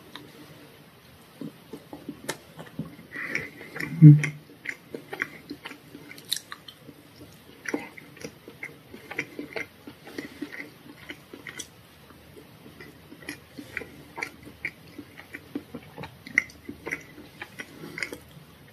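A person chewing and biting into chocolate tart, with many small clicks and crackles of mouth sounds and one louder low thump about four seconds in.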